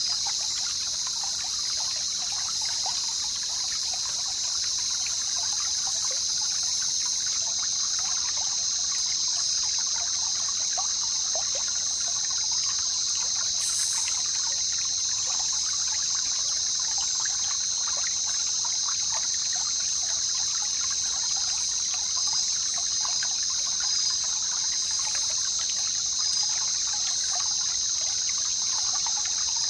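Jungle river ambience: water trickling and babbling steadily over a continuous high-pitched buzz. A fainter, even higher layer of the buzz drops out about a quarter of the way in.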